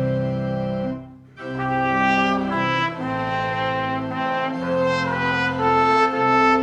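Instrumental church music: sustained chords in a brass-like tone, breaking off briefly about a second in, then moving through a new phrase of changing chords.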